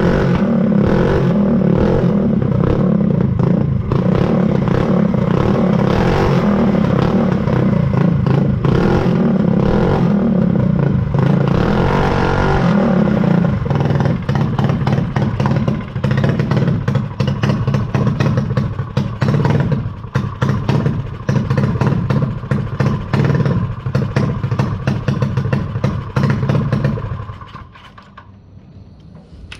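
Mini dirt bike's small hot-rodded engine warming up: it runs steadily at first, less evenly from about halfway, and cuts out near the end.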